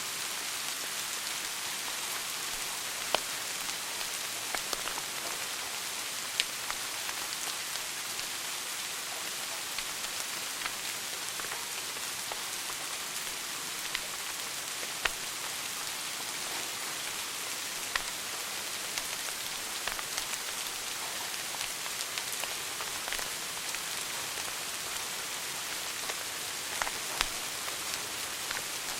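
Wood fire burning in a fireplace: a steady crackling hiss with sharp pops every few seconds at irregular intervals.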